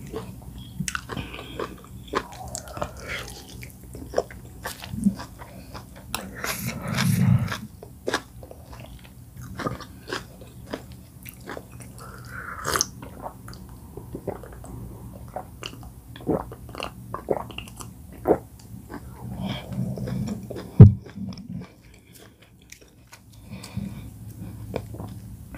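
Close-miked eating sounds: wet chewing and mouth clicks while eating oat fufu with bitterleaf soup, with a sip of water from a glass about halfway through. A single sharp click about two-thirds of the way through is the loudest sound.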